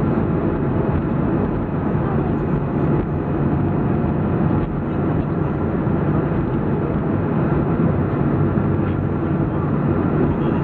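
Steady cabin noise inside a Boeing 737-400 on the ground after landing, with its CFM56 engines running at low power. It is an even, unchanging rumble with no distinct events.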